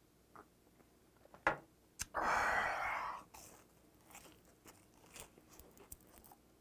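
A person chewing a whole salt-grilled gizzard shad, eaten bones and all: a loud rasping burst about two seconds in, then many small crunches and crackles.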